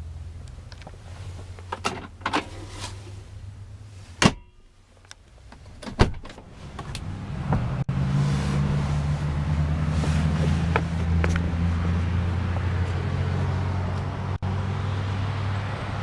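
A vehicle door knocks shut about four seconds in and a second knock follows about two seconds later; then a steady low engine hum builds and runs on.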